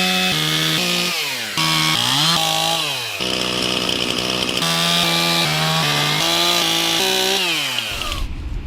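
Chainsaw running and cutting firewood, its engine pitch stepping up and down and twice sagging then climbing again as it works through the wood. The engine stops shortly before the end.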